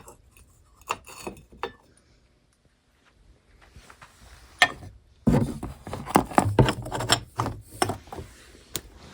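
Small objects being handled and rummaged through: a few light knocks, then about halfway in a dense run of clattering knocks and clinks with low thuds, as items are moved and set down.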